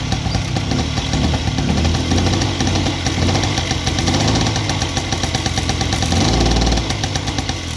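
Honda Spree moped's small two-stroke single-cylinder engine running just after a cold start, having sat unstarted for about a year, its pitch wavering a little as it idles.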